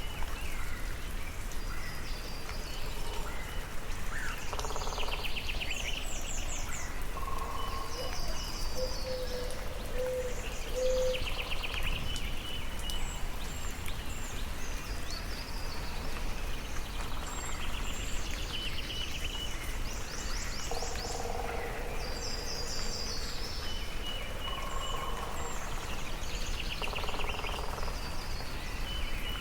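Several songbirds singing, with trilled phrases repeating every few seconds, over a steady hiss of soft rain.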